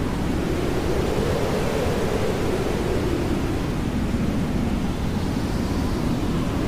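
Hair dryer running steadily, a continuous rushing noise used as white noise. Its lower part drifts slowly up and down in pitch.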